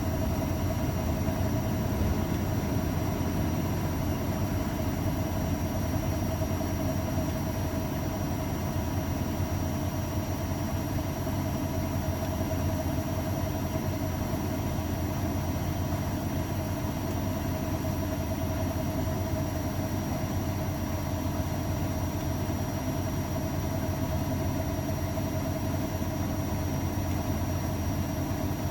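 AEG Öko-Lavamat 693 washing machine running with a continuous low drone and a steady tone over it, unbroken and even in level.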